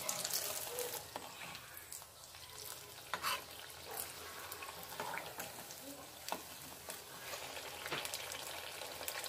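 A bread-and-potato cutlet deep-frying in hot oil in a kadai, a steady sizzle, with a steel spatula clicking and scraping against the pan a few times as it moves the cutlet.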